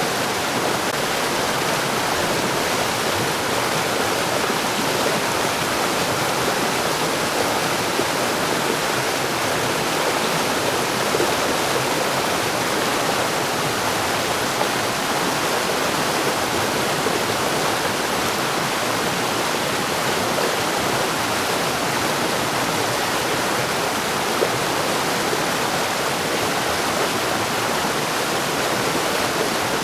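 Mountain stream: water rushing and splashing over rocks in a steady, unbroken flow.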